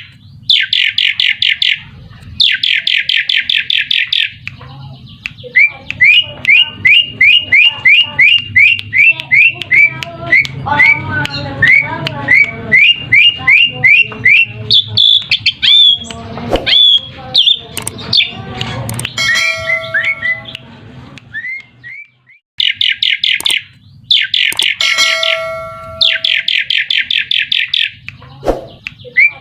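Asian pied starling (jalak suren) calling. Fast rattling chatter comes in bursts at the start and again near the end. In between is a long run of repeated sliding whistled notes, about two to three a second, with a couple of drawn-out harsher notes.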